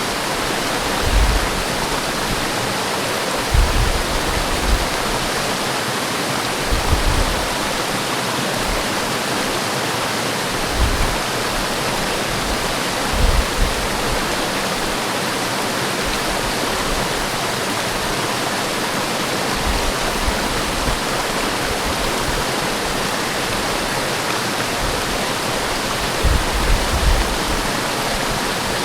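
Waterfall in a forest, a steady full rushing of falling water, with brief low rumbles now and then.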